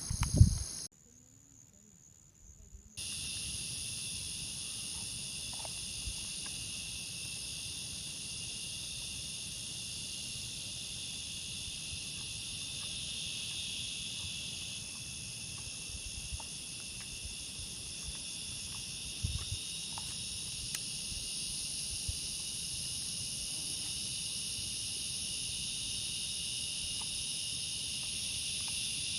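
Steady high-pitched chorus of forest insects, crickets among them, drones on without a break. It is cut off briefly about a second in and resumes a couple of seconds later. A couple of loud knocks sound right at the start.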